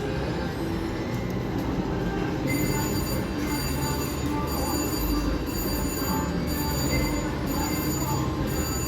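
Casino floor din from slot machines. From about two and a half seconds in, a high electronic bell-like ringing pulses on and off about once a second, typical of a slot machine's win or bonus ringing.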